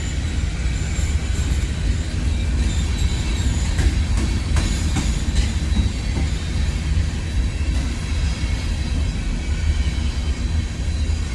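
Freight train rolling past with a steady low rumble, with a few metallic clanks from the cars about four to five seconds in.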